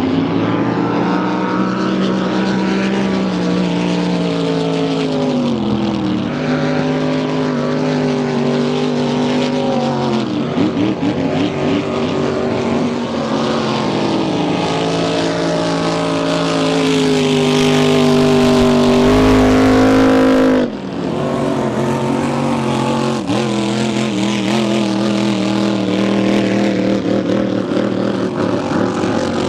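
Race boat engines running, their pitch drifting down and up. One engine climbs steadily in pitch for several seconds and cuts off suddenly about two-thirds of the way through, while others keep running.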